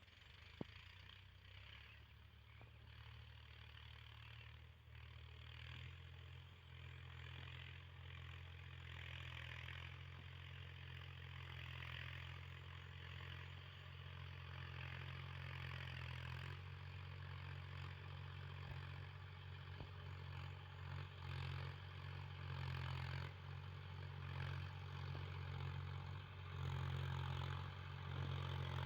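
Mahindra tractor's diesel engine running steadily, growing gradually louder as it comes closer. A single sharp click sounds right at the start.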